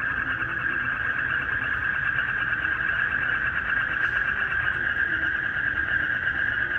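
Night chorus of crickets and frogs: a steady, high, fast-pulsing chirring with short, low croaking calls scattered through it.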